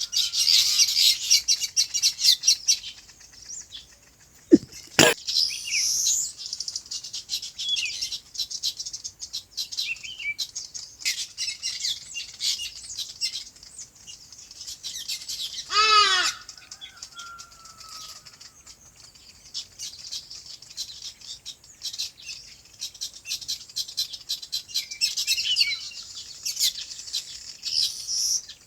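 A flock of small birds chirping in rapid bursts, densest at the start and again near the end, with scattered chirps between. A sharp click about five seconds in, and a single louder, harsher call about sixteen seconds in.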